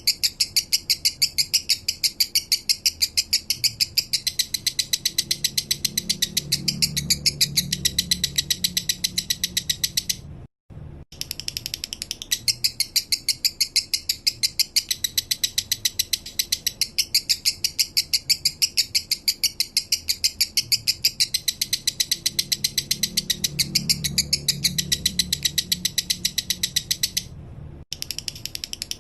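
Male lovebird singing its rapid 'minor' chattering song: a long, even string of high chirps, several a second, broken by two short pauses.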